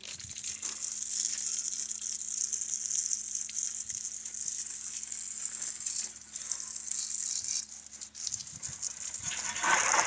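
Water spraying and pattering onto a muddy motorcycle as it is washed: a steady hiss with small scattered splashes.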